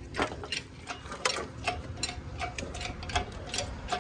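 Irregular sharp metallic clicks, a few each second, from hand tools at work on the car.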